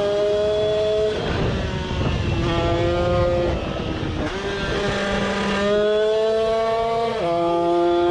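Tuned two-stroke engine with a 76 cc cylinder kit and expansion-chamber exhaust, running at high revs. It holds a steady, high-pitched note, with the pitch dropping or stepping to a new level a few times.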